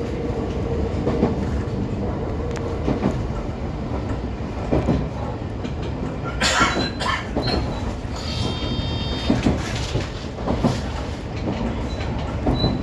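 JR 125 series electric railcar running along the line, heard from the driving cab: a steady low rumble with irregular wheel-on-rail knocks. A brief loud noisy burst comes about six and a half seconds in, and faint high squealing tones follow shortly after.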